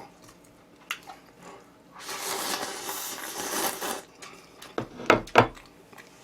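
Slurping of cup-ramen noodles: a two-second hiss of air and noodles drawn in. About a second later come a few short, sharp mouth sounds.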